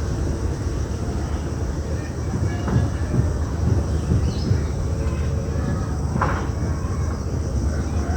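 Strong wind buffeting the microphone as a loud, unbroken low rumble, with a few faint short high sounds over it.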